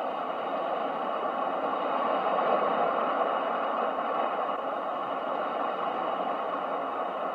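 Ocean waves washing in a continuous rush, swelling a couple of seconds in and then slowly easing off.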